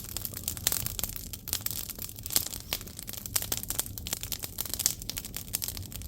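Firewood burning in an agungi, a traditional Korean wood-fired furnace: dense, irregular crackling with many sharp pops over a steady hiss.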